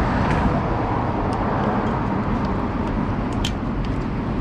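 Steady road-traffic noise with vehicle engines running, and a few short clicks.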